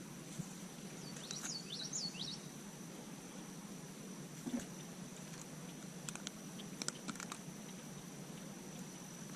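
A bird gives a quick run of about five short chirps that swoop up and down in pitch, about a second in, over a faint steady high-pitched tone. A few faint clicks come later.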